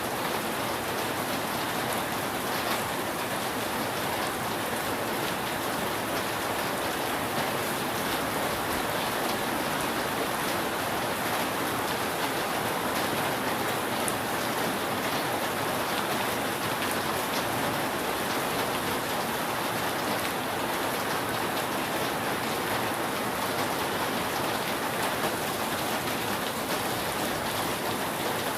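Steady rain falling on a roof, an even hiss with scattered individual drops ticking.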